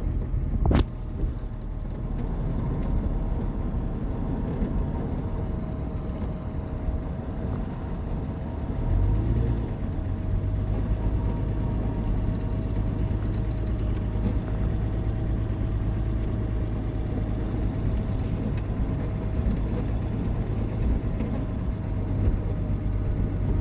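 Car cabin noise while driving slowly on a snow-covered road: steady engine and tyre rumble with a faint steady whine. There is a sharp click about a second in, and a deeper steady hum sets in about nine seconds in.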